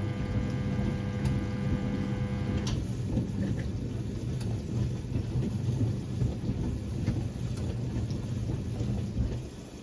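1978 Siemens WA4600 washing machine's drum tumbling a load of jeans through the wash water: an uneven rumbling slosh that stops near the end as the drum pauses. A steady mains hum from the machine runs under it for the first three seconds or so, then cuts off.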